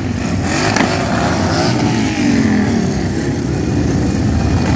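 Several motorcycles riding past, their engine notes rising and falling as they go by.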